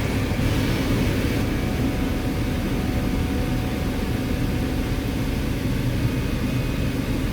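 Steady engine and road noise inside a camping bus on the move, a constant low rumble with a hiss over it.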